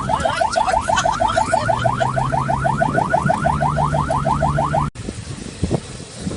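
Fast repeating electronic chirping, about seven rising sweeps a second, like a car alarm's siren mode, over a low steady hum. It cuts off suddenly about five seconds in, and wind and rustling follow.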